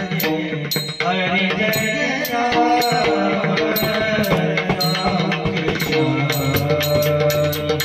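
Devotional bhajan music: a pakhawaj drum keeps a steady rhythm under a sustained melody line, with frequent short, bright metallic strokes over the top.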